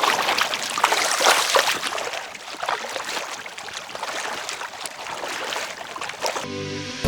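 Paddle strokes splashing and dripping water beside an inflatable pack raft, in uneven bursts, louder in the first couple of seconds. Background music comes in near the end.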